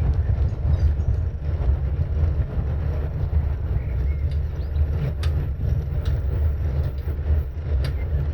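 Wind buffeting the microphone of a camera on a moving bicycle: a steady, loud low rumble that rises and falls, with a few faint high chirps.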